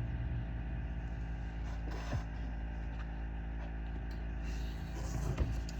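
Steady low background hum, with a faint knock about two seconds in and another near the end.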